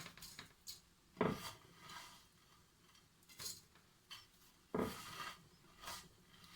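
Metal couscoussier steamer and pot clanking as they are handled and fitted together: a handful of separate knocks with a short metallic ring, the loudest about a second in and just before five seconds.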